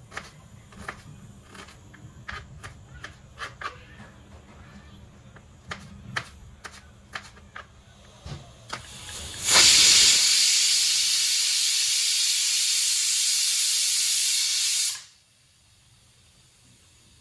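A loud, steady hiss of escaping steam lasting about five seconds and cutting off suddenly, after a run of light clicks and taps.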